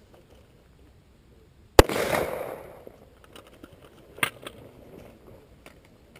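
A rifle shot close by, one sharp crack about two seconds in that rings out across the range for about a second, followed a couple of seconds later by fainter, more distant shots from other firing points.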